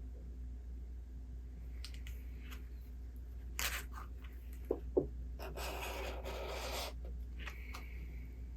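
Handling a paper book: small paper scrapes and two soft taps, then a swish of about a second and a half as a page is turned, over a steady low hum.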